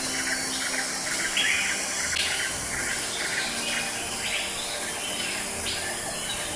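Birds chirping, short repeated calls over a steady background.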